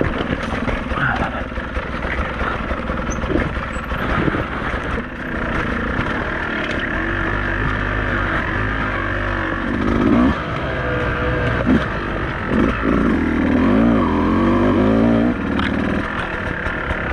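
Beta 200RR two-stroke enduro motorcycle being ridden on a rough trail, the engine revving up and down with the throttle. A few sharp knocks and clatter come from the bike over the ground.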